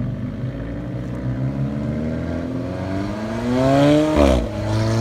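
A car engine accelerating hard: its pitch climbs steadily, drops sharply on an upshift about four seconds in, then climbs again in the next gear.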